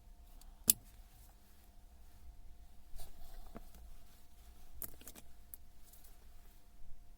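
Scattered sharp clicks and light knocks of small metal parts being handled, one sharp click about a second in and a cluster around the middle, over a faint steady hum.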